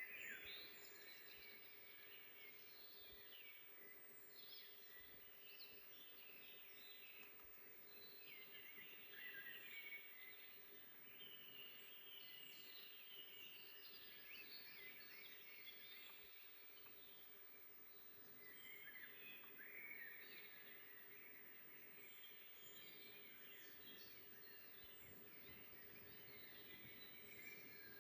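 Faint forest birdsong: several songbirds chirping and trilling over one another without a break.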